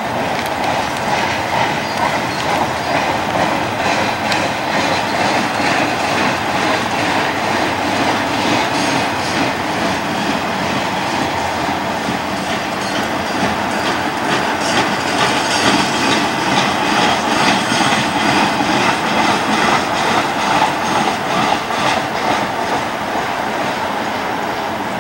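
Continuous welded rail train rolling past: a steady rumble of the rail-laden cars with a rapid, rhythmic clickety-clack of the wheels, loudest past the middle.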